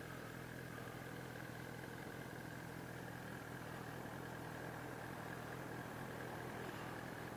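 Sport motorcycle engine running at a steady, unchanging speed.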